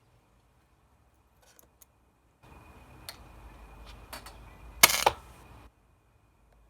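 Battery spot welder firing: a couple of small clicks over a faint steady hiss, then one sharp crackling snap about five seconds in as the weld discharges onto the cell.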